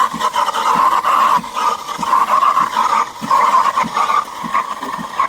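Espresso machine steam wand frothing milk: a loud, steady hiss with an irregular low gurgle underneath.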